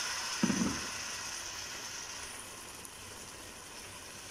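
Chicken and tomato pieces sizzling in a frying pan just after water has been poured in, the sizzle fading steadily as the water settles in. A brief low knock about half a second in.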